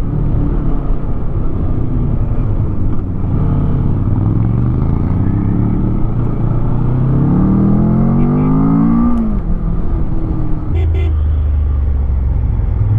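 Moto Guzzi motorcycle engine pulling uphill under acceleration, its pitch rising for several seconds and then dropping sharply at a gear change about nine seconds in, after which it runs steadily.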